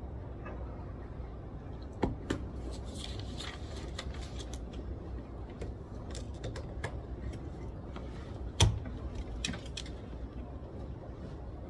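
Library room tone: a steady low hum with scattered small clicks and knocks, the loudest a single thump about eight and a half seconds in.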